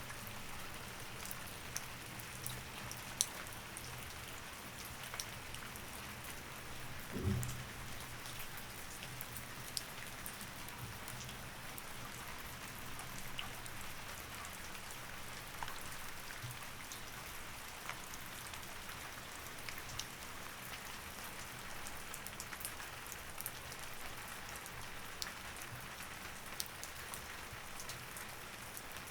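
Steady rain falling, an even hiss with scattered drops ticking sharply. A single dull low thump sounds about seven seconds in.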